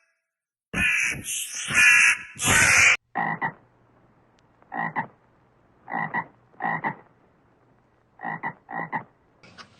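Loud, harsh animal calls for about two seconds, which stop abruptly. Then come about seven short animal calls, some in quick pairs, spaced roughly a second apart over a faint low hum.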